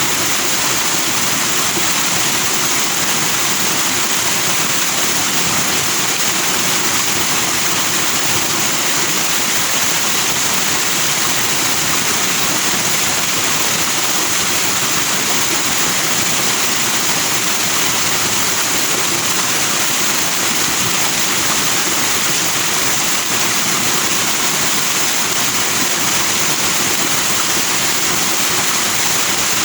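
Stream water rushing and splashing over rocks in a steady, unbroken hiss of white water.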